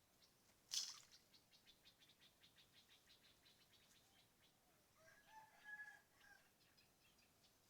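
Faint bird calls: one sharp note, then a fast run of short chirps that fades, and about five seconds in a brief pitched call.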